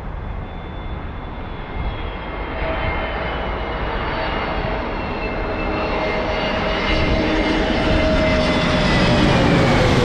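Twin-engine Boeing 787 Dreamliner jet engines at takeoff power during the departure, growing steadily louder, with whining tones that slowly fall in pitch as the aircraft passes.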